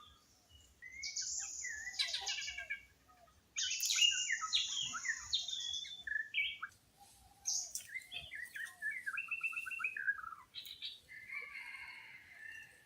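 Several wild birds chirping and calling over one another in bursts, with quick repeated notes and short trills and a few brief pauses between them.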